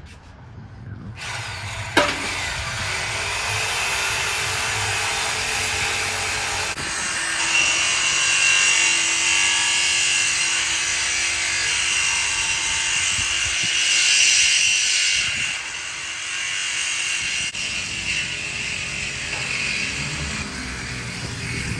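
Power tool cutting through metal exhaust pipe during a muffler delete. It is a steady, high-pitched grinding that starts about a second in, with a sharp click shortly after.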